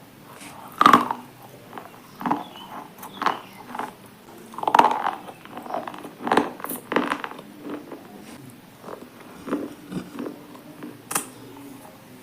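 A person biting and chewing something hard and brittle, with a string of irregular sharp crunches, the loudest about a second in and again near five seconds.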